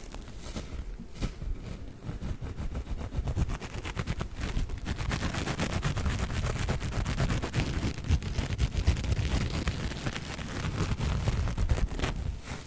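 Silver and gold scouring sponges scrunched and rubbed: a dense, rapid scratchy crackle over a low rumble, growing busier after the first couple of seconds.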